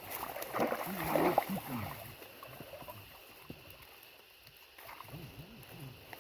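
Water sloshing and splashing in shallow pond water, loudest in the first two seconds and then dying down.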